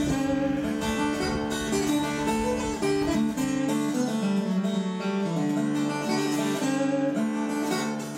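Acoustic guitar music, a run of plucked notes.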